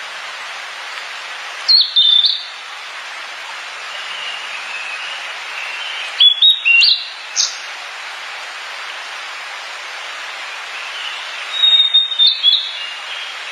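Sulingan (tledekan) songbird singing three short phrases of clear, high whistled notes that step up and down in pitch, a few seconds apart, over a steady background hiss.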